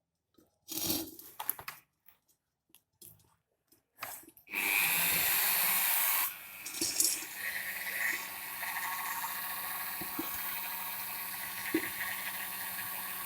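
A few handling clicks and knocks, then a Bosch rotary tool switches on about four and a half seconds in and runs with a steady high whine. Near the six-second mark it drops to a lower, steady grinding as its 3 mm bit cuts into the wall of the clay pot, with a few scrapes and clicks on top.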